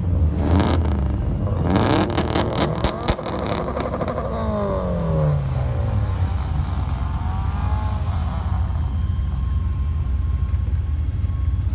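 Car engine revving and dropping back. A rapid crackle of sharp pops comes through the first few seconds, and the engine note falls in pitch around the middle, over a steady low rumble.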